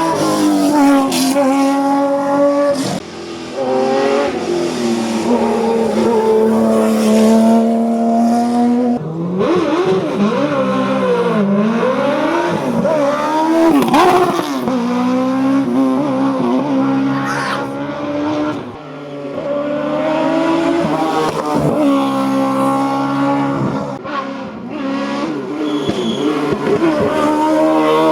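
Competition car engine running hard on a hill climb, its pitch climbing and stepping down again at each gear change. For about ten seconds in the middle it revs up and down in quick swings, then settles back into steady pulls through the gears.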